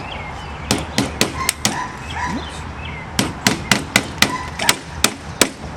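Hammer tapping a metal window-screen spline down into its groove in the screen frame: light, quick taps about four a second, a short run early on and a longer run after a pause of about a second and a half.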